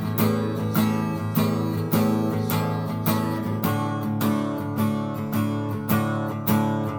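Acoustic guitar strummed in a steady rhythm, about one and a half strums a second, the chords changing every few strums, with no singing.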